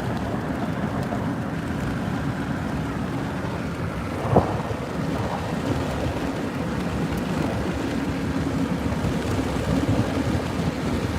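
Steady road and wind noise inside a moving vehicle, with a low drone. There is a brief knock about four seconds in.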